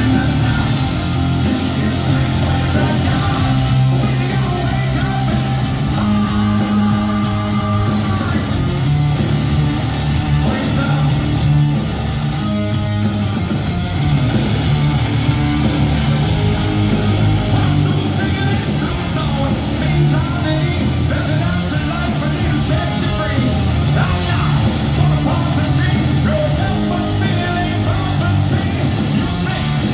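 Live hard rock band with distorted electric guitars, bass, drums and a singer, loud and dense, as picked up by an audience member's recording device in an arena.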